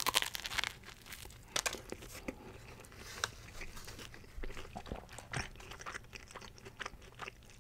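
A person biting into a sub sandwich on crusty rosemary-parmesan bread, a crisp crunch at the very start, then chewing with scattered crunches of the crust, heard close to the microphone.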